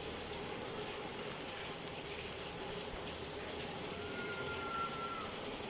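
Rain falling steadily, an even hiss of water. A faint thin tone sounds for about a second near the end.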